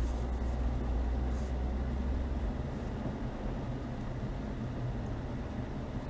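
Chevrolet Niva driving slowly, its engine and drivetrain running with a steady low drone; the deep rumble eases about halfway through.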